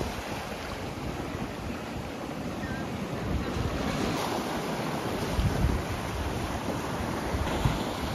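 Sea waves washing in, with wind buffeting the microphone in uneven low gusts.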